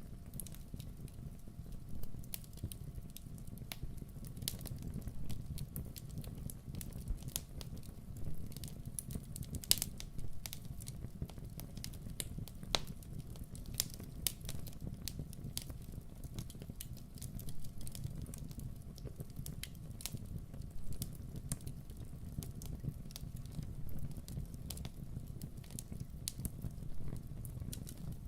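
Wood campfire crackling: irregular sharp pops and snaps, several a second, over the low steady rumble of the burning fire.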